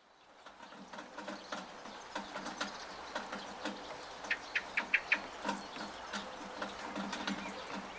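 Rain pattering, with drops falling irregularly from a gutter in a steady wash of rainfall, fading in over the first second. About halfway through, a bird gives a quick run of short chirps.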